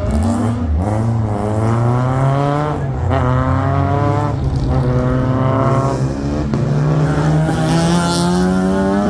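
Competition car's engine under hard acceleration, its note climbing again and again and dropping back between climbs, as at gear changes or lifts for corners. A short hiss comes in near the end.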